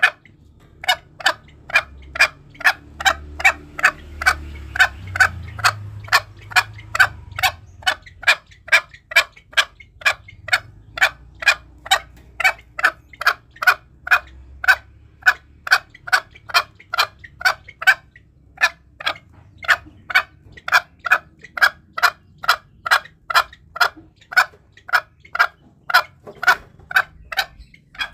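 Green junglefowl calling in a steady run of short, sharp calls, about two a second, with a brief break about two-thirds of the way through. It is a lure call used to draw wild junglefowl in for hunting.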